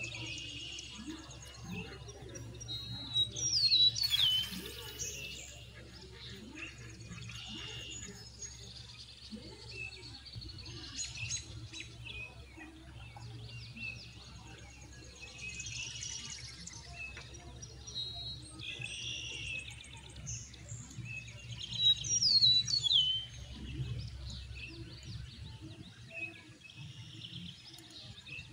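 Songbirds chirping and calling, with many short chirps throughout and two louder, quickly falling whistled calls, one about three seconds in and one about twenty-two seconds in. A low steady hum runs underneath.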